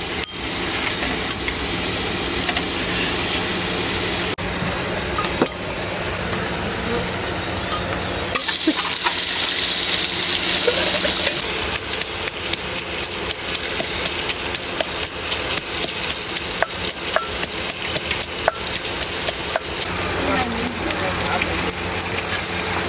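Food frying in a pan: steady sizzling with dense crackling and occasional stirring, hissing louder for a few seconds near the middle.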